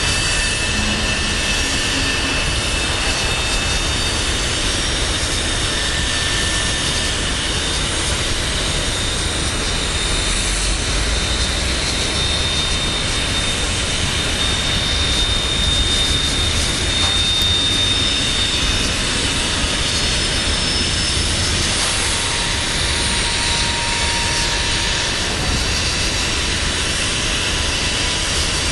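Freight train tank cars rolling past: a steady rumble of steel wheels on rail, with thin high-pitched squeals coming and going.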